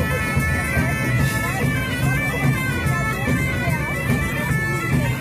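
Bagpipe music: a melody moving over a steady low drone.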